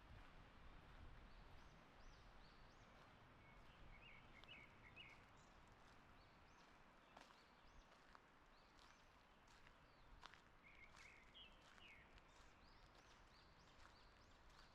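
Faint forest birdsong: several birds repeating short high arched notes, with two brief trilled phrases about four seconds in and again about ten seconds in. Soft, scattered footsteps on the forest path.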